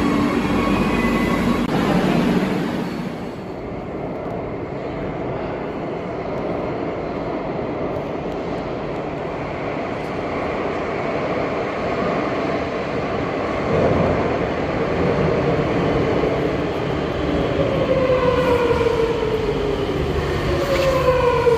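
Electric train running with a steady rumble. Its motor whine slides down in pitch over the last few seconds, as when the train slows.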